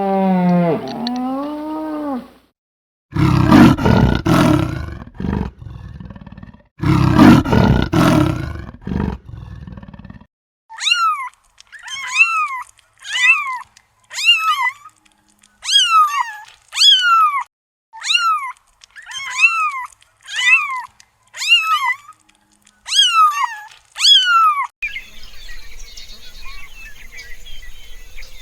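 A run of animal calls: a short pitched call at the start, then two loud, harsh calls a few seconds each, then about a dozen short descending calls about one a second. It ends in steady outdoor background noise.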